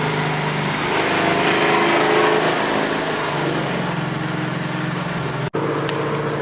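Ford Mustang GT V8 on long-tube headers, an X-pipe and factory mufflers, droning steadily while driving, its pitch rising and falling a little. The sound drops out for an instant about five and a half seconds in.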